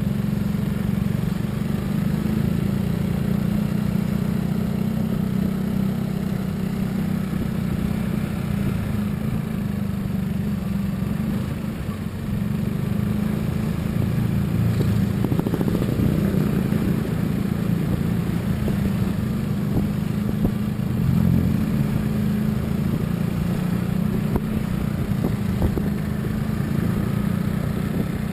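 A motor vehicle travelling at steady speed, a continuous low engine and road rumble that swells slightly now and then.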